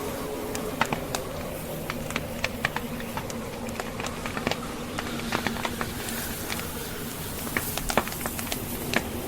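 Wood fire crackling, with irregular sharp pops and snaps, over a steady hiss of snowstorm wind that swells about six seconds in.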